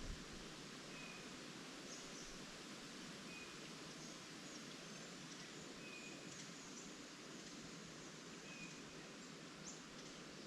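Faint steady rustle of leaves in the wind with birdsong: one bird repeating a short, clear high note about every two and a half seconds, and scattered brief higher chirps from others.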